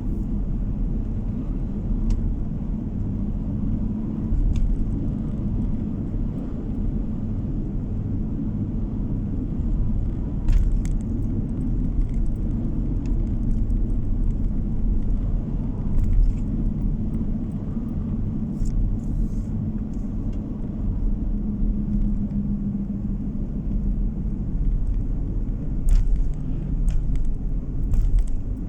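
A car driving along a road, heard from inside the cabin: steady low tyre and engine rumble, with a few faint clicks scattered through.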